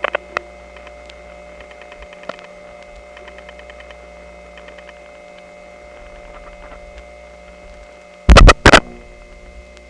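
Telephone line in a step-by-step exchange, carrying a steady hum, dial tone and whine from a selector's unbalanced power supply. Faint runs of dial-pulse crosstalk tick at about ten a second several times. About eight seconds in come two loud clicks as a digit is dialled and the call cuts through to the next selector.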